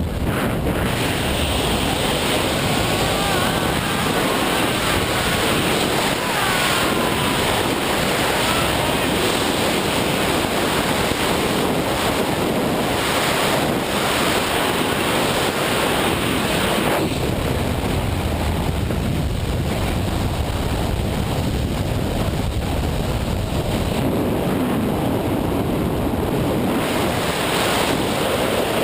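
Steady rush of wind buffeting the microphone, with a slight change in tone about two-thirds of the way through.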